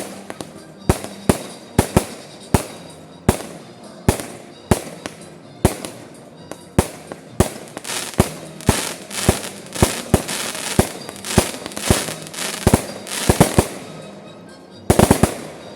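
Fireworks display: aerial shells bursting one after another, about one or two bangs a second, with crackling between the bursts in the middle and a rapid volley of bangs near the end.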